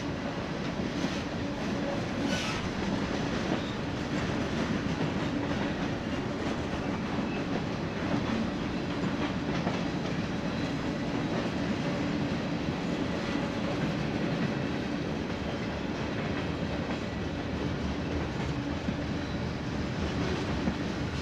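Union Pacific freight train rolling past, its wheels running steadily on the rails.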